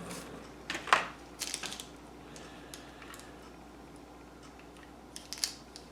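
A few light clicks and taps of small craft embellishments being handled and set on a tin, the loudest about a second in and another near the end, over a faint steady hum.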